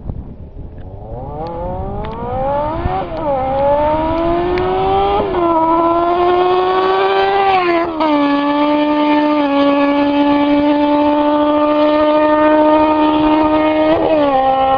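Kawasaki Ninja ZX-6R inline-four engine running without mufflers, accelerating hard: the pitch climbs and drops sharply at upshifts about 3, 5 and 8 seconds in. After the last shift it holds a steady high note, with a brief dip near the end.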